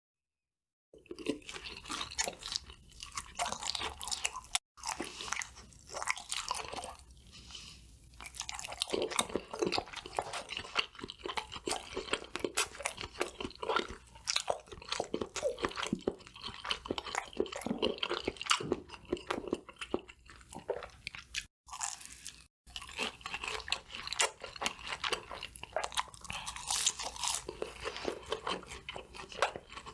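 Close-miked bites and chewing of crispy KFC fried food: loud, irregular crunching crackles. The sound drops out abruptly a few times, at edit cuts.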